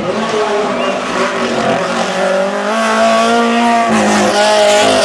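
Hillclimb race car's engine accelerating hard and getting louder, its pitch climbing, dipping briefly with a gear change about four seconds in, then climbing again.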